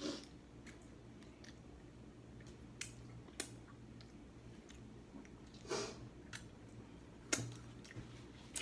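A person chewing food: faint, scattered wet smacks and clicks of the mouth, a few seconds apart, over a low steady hum.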